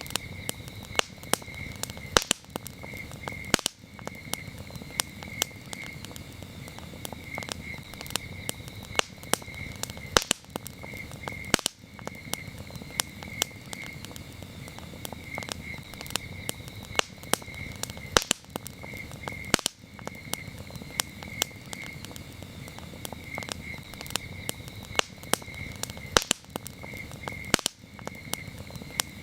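Campfire crackling, with frequent sharp pops and snaps over a low rustle of burning wood, while crickets chirp in a steady pulsing trill. The same pattern repeats about every eight seconds, as in a loop.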